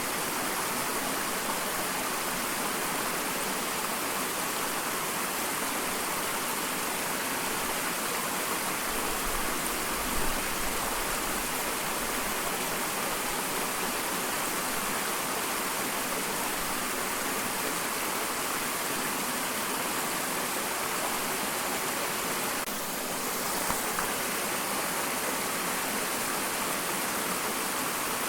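Small waterfall running steadily: an even, unbroken rush of falling and splashing water.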